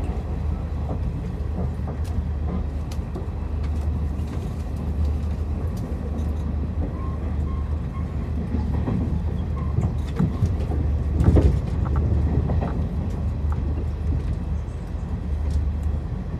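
Passenger train running, heard from inside the carriage: a steady low rumble with scattered clicks and knocks from the wheels and track, and a louder clatter about two-thirds of the way through.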